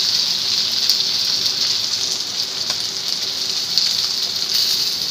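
Mudskipper fish and sliced onions frying in oil in a nonstick pan: a steady sizzle with a few scattered pops of spattering oil.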